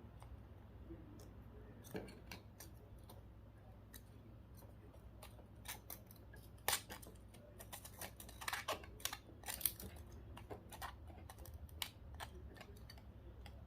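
Faint scattered clicks and small snaps of a GPS unit's parts being pried and peeled apart by hand, thickest about halfway through.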